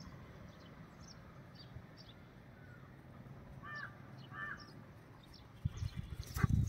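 Two short bird calls, a little under a second apart, over quiet background with faint chirps. Low rumbling and thumps start near the end and are the loudest part.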